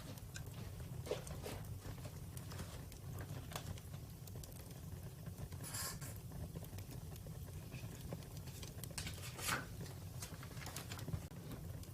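Wood fire crackling: scattered pops and snaps over a steady low rumble, with a brief hiss near the middle and a louder snap about three-quarters of the way through.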